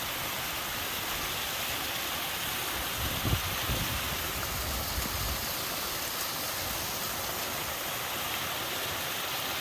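Waterfall rushing, a steady even noise of falling water, with a few soft low bumps about a third of the way in.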